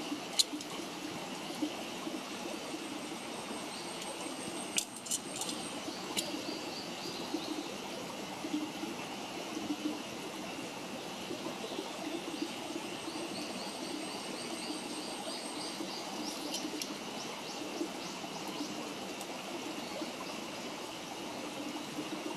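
Wood campfire burning with a steady crackle and a few sharp pops, while birds chirp in short quick runs in the background.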